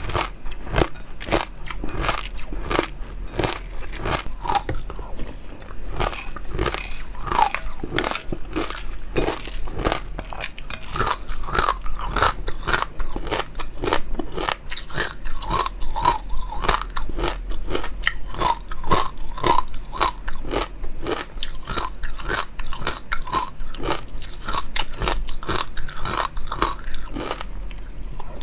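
Close-miked eating: continuous crunching and chewing of food, a dense run of crackly bites with no pause.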